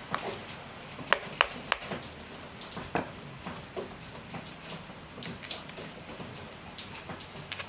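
Scattered sharp metallic clicks and taps of screws and a screwdriver being worked into a fridge fan motor's metal housing during reassembly, a quick run of three about a second in and a louder one near three seconds, over a steady hiss of rain.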